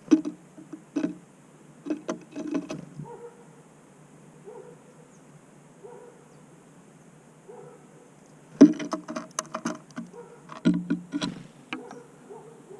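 Small birds at a feeder making clusters of sharp taps and knocks close to the microphone, a burst in the first few seconds and a longer one about two-thirds of the way through.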